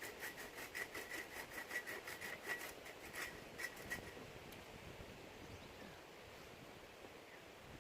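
Quick rhythmic rasping strokes of a hand tool working wood, about four a second, stopping about four seconds in.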